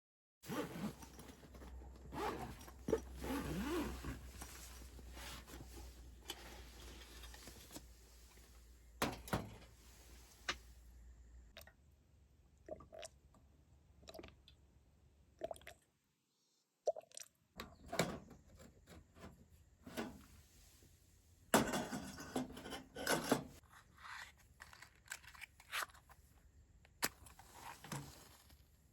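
Close handling noises: crunching, scraping and rubbing, with scattered sharp clicks and knocks, broken into short pieces by a brief dead-silent gap about halfway through.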